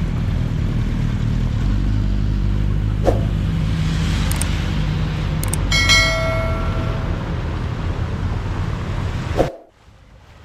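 Street traffic: a steady rumble of passing cars, with a sharp click about three seconds in and a short pitched tone a little past the middle. It cuts off suddenly near the end.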